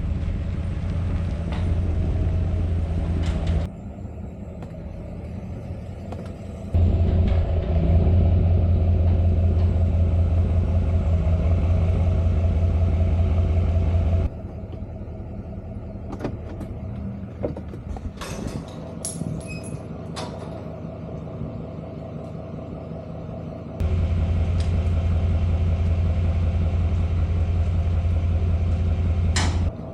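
A vehicle engine running with a steady low rumble, which starts and stops abruptly several times. In the quieter stretches between there are a few knocks and clatters.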